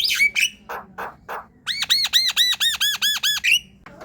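Javan myna (jalak kebo) singing: a few harsh, chattering notes, then a fast run of about ten clear whistled notes, each rising and falling in pitch, ending shortly before the end.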